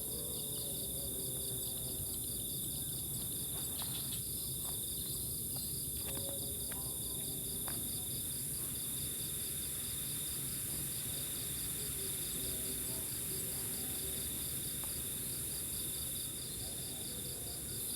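Night insect chorus of crickets: a fast, evenly pulsing trill and a steady high-pitched buzz that carry on unbroken, with a few faint clicks a few seconds in.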